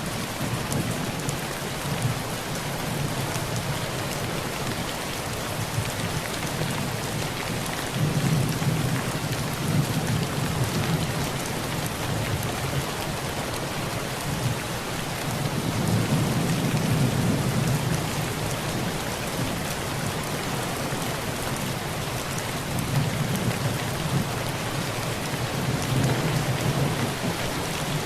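Heavy rain drumming steadily on a tin roof, with low rolls of thunder that swell and fade several times.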